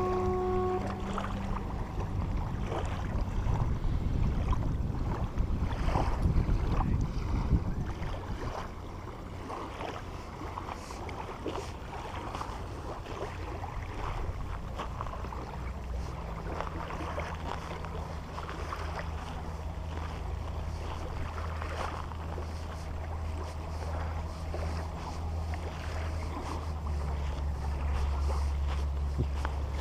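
A boat's engine running with a steady low hum, with wind buffeting the microphone. The wind is loudest in the first several seconds, and the engine hum grows louder about halfway through and again near the end.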